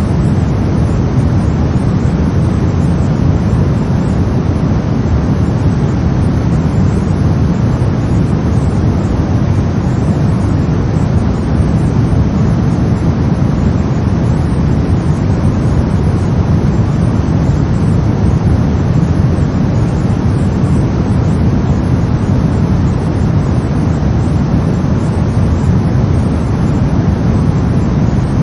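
Brown noise: a steady, deep rumbling hiss, strongest in the low end, with no change or events.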